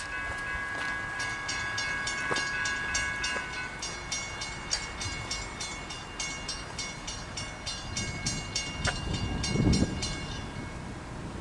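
Railroad scene with a train horn held faintly at the start, then steady ringing strikes at about three a second, typical of a grade-crossing bell, that stop shortly before the end. A low train rumble swells near the end.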